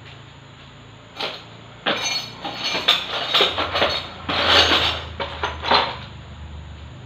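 Metal tools and parts clinking and knocking against each other in a quick, irregular run of sharp strikes, starting about a second in and stopping near the end.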